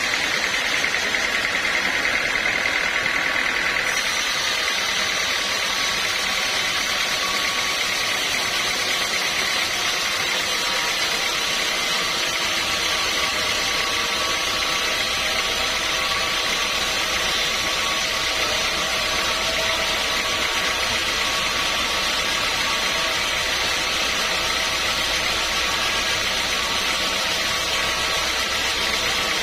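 Sawmill machinery running steadily, a continuous mechanical drone with a few steady tones. The upper hiss grows about four seconds in, and a low hum joins about twelve seconds in.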